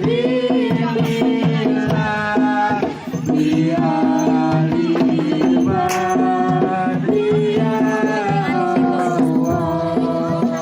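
Traditional Javanese folk ensemble music of the kind that accompanies a Bantengan dance: hand drums beating under a held, wavering melody, with a few sharp percussive strokes.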